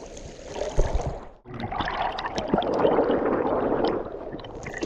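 Flowing spring water gurgling and rushing close by. It drops away briefly about a second and a half in, then comes back louder and churning, with small splashes.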